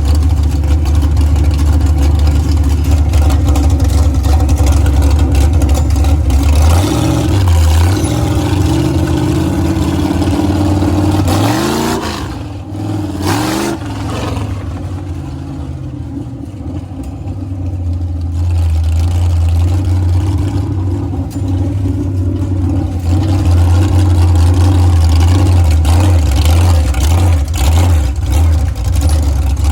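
Monster truck engine running, its pitch sliding up and down as it revs from about a quarter to halfway in. It then runs quieter for several seconds before settling back into a steady, loud drone.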